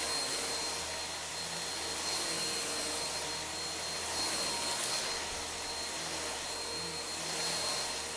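Vacuum cleaner running steadily: an even rush of air and motor with a thin high whine over it.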